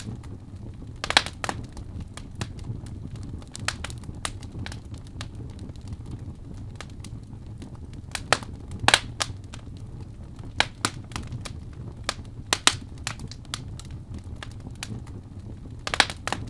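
Wood fire burning in a fireplace, crackling with frequent small irregular pops and a few louder snaps, over a steady low rumble.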